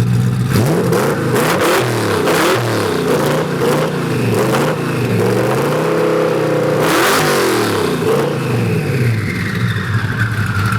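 Twin-turbo V8 of a 1500+ hp Ford GT being revved hard again and again, the revs rising and falling about once a second, then held higher for a couple of seconds before dropping back. Sharp cracks from the exhaust come with several of the revs, as the exhaust pops and shoots flames.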